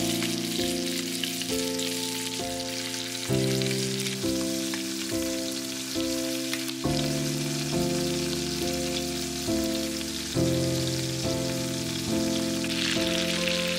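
Food sizzling as it fries in a pan, the sizzle growing brighter near the end. Under it runs soft background music, a new note struck about every second.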